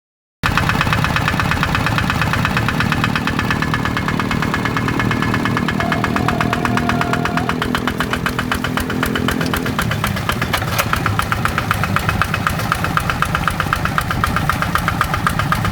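Kubota RD85 DI-2S single-cylinder diesel engine of a hand tractor running with a steady, even beat, coming in suddenly about half a second in.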